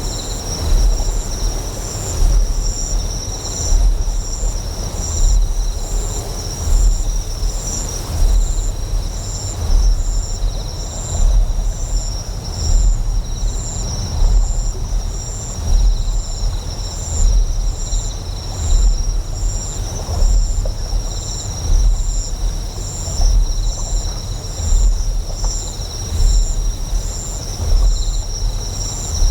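Deep generator hum swelling in a steady pulse about once a second, layered with high, continuous insect chirring that pulses rapidly in the top register.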